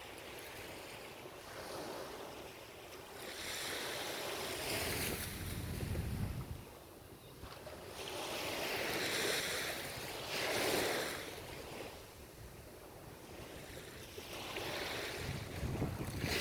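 Ocean waves breaking and washing up the shore, the surf swelling and fading in repeated surges about every five to six seconds.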